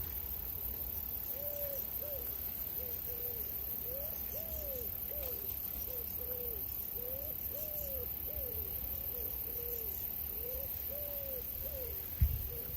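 A bird hooting over and over, short rising-and-falling calls at a low, steady pitch, several a second, over a low rumble. A single thump sounds near the end.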